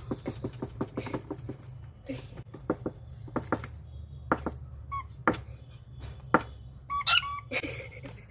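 Cockatiel tapping on a box with its beak: a quick run of taps in the first second and a half, then scattered sharper taps. A short squawk about seven seconds in, with a brief chirp a little earlier.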